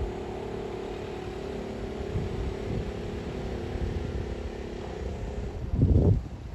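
A vehicle engine running steadily at a constant pitch, with a short, loud low burst near the end.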